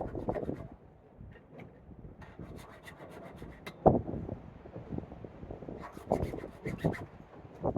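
File rasping across the cutters of a chainsaw chain, sharpening it by hand in irregular scraping strokes.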